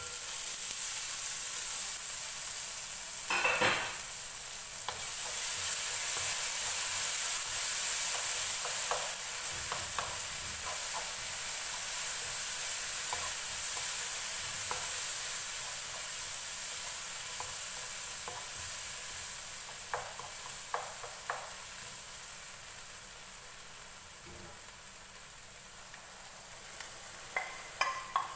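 Tomato and onion sizzling as they fry in a nonstick pan, with short taps and scrapes of stirring against the pan and a louder knock about three and a half seconds in.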